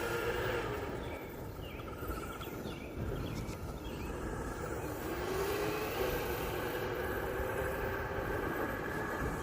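Twin 120 mm electric ducted fans and electric drive motor of a 1/5-scale RC jet truck whining at a distance. The pitch drops away about a second in, rises again around five seconds in and eases off near the end, over a low wind rumble.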